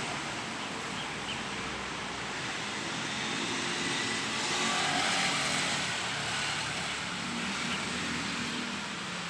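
A motor vehicle's engine and a steady noise, growing louder about five seconds in and then fading, as it passes by.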